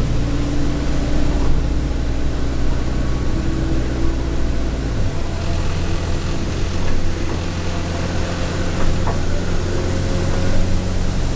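Alexander Dennis Enviro200 bus heard from on board, its diesel engine pulling with a high turbo whine that rises and then fades away about five seconds in. The engine note drops at the same point.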